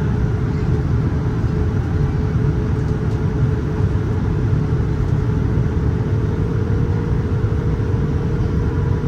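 Steady cabin noise inside a Boeing 787-9 airliner: a constant low rumble of engines and airflow with a steady hum running through it.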